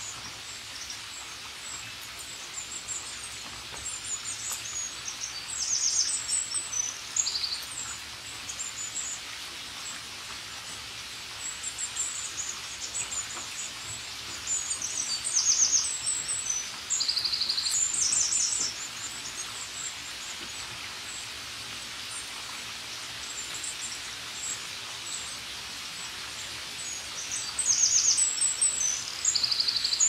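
Small birds chirping and trilling in high, quick phrases over a steady hiss of falling rain. The birdsong comes in spells, busiest about six seconds in, around the middle and near the end.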